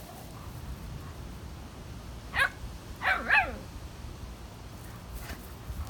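German Shepherd barking in play: one short bark about two and a half seconds in, then two quick barks a second later, dropping in pitch.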